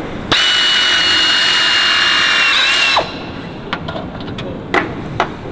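Power tool, most likely a drill, running for about three seconds with a steady high whine that dips slightly in pitch just before it stops, followed by a few light knocks and clicks.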